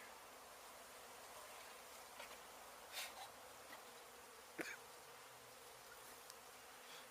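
Faint, steady buzzing of a honey bee colony, with a couple of brief sharp knocks about three and four and a half seconds in.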